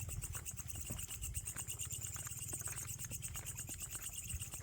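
Jungle insects buzzing in a steady, fast-pulsing high-pitched chorus, over a low rumble and scattered small clicks.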